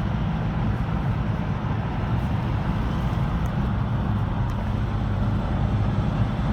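Steady engine and road noise heard inside the cabin of a moving car: an even low hum with road rumble, unchanging throughout.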